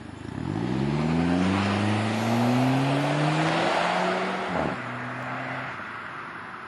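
Chrysler PT Cruiser 2.4 turbo with a Silverline aftermarket exhaust accelerating away, the exhaust note rising in pitch for about three seconds. A short break about four and a half seconds in, like a gear change, is followed by a steadier, lower note that fades as the car drives off.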